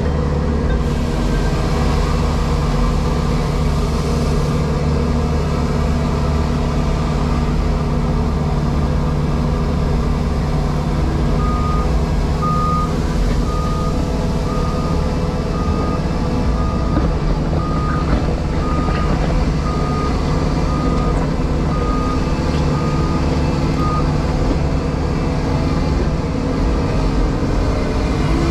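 Diesel engine of a JCB Pothole Pro running steadily. In the middle a reversing alarm sounds a row of short, even beeps, a little more than one a second, for about twelve seconds.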